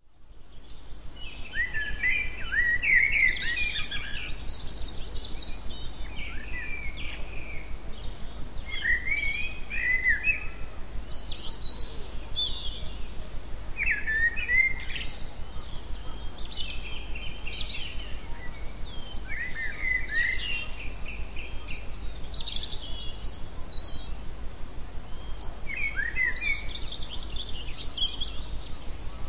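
Songbirds singing: short phrases of chirps and trills repeating every second or two, over a steady low background hum.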